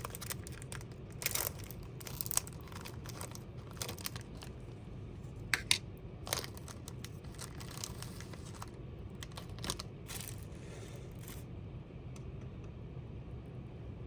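Scattered small rustles and clicks of something being handled, over a low steady hum.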